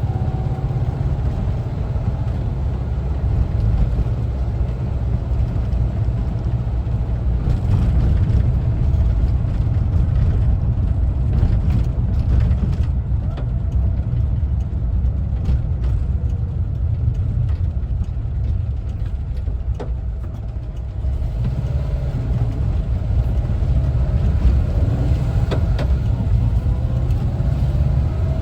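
1974 Volkswagen Westfalia camper driving, with a steady low rumble from its air-cooled Type 4 flat-four engine and the road. The sound eases slightly around twenty seconds in, then picks up again.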